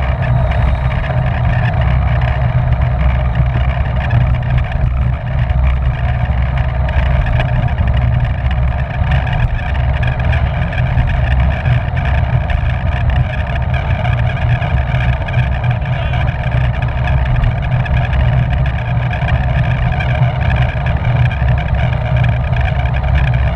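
Wind rushing over the microphone of a camera on a bicycle ridden at race speed in a criterium bunch. The sound is loud and steady, with a heavy low rumble.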